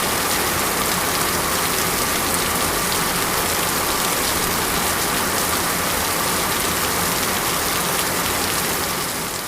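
Steady rain falling, a dense even hiss of drops on surfaces, fading out near the end.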